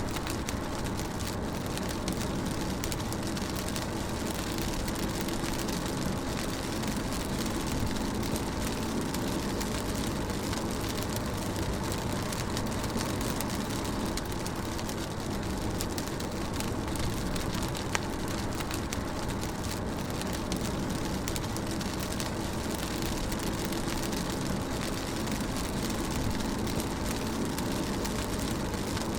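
Rain on a car, heard from inside the cabin while driving: a steady hiss of rain on the roof and windows over the low rumble of the road and engine, with the odd light drop tick.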